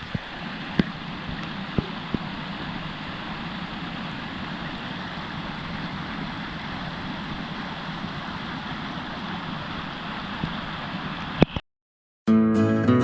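A stream running steadily, full after heavy rain, with a few faint knocks in the first two seconds. The sound cuts off abruptly near the end and strummed acoustic guitar music begins.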